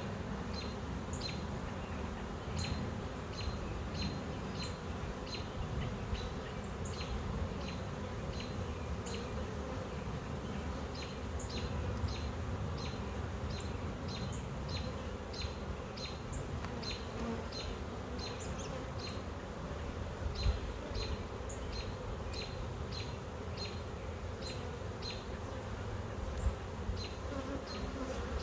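Honey bees buzzing steadily around an opened hive.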